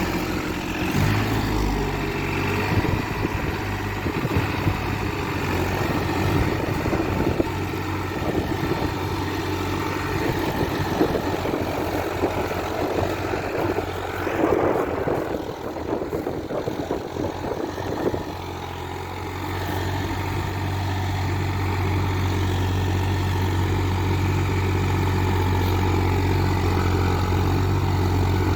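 New Holland 3630 TX Super tractor's diesel engine running in first low gear, rough and uneven at first, then settling into a steady drone about two-thirds of the way through.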